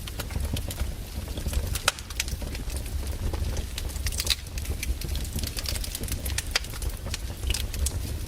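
Wood fire crackling, with irregular sharp snaps and pops over a low steady rumble.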